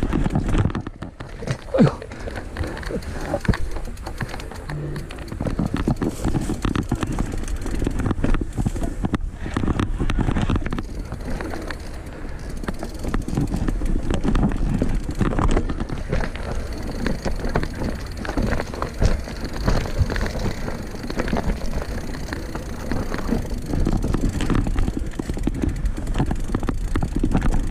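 Mountain bike being ridden over a rough forest trail: a steady rumble with frequent small knocks and rattles from the bike as it rolls over the ground.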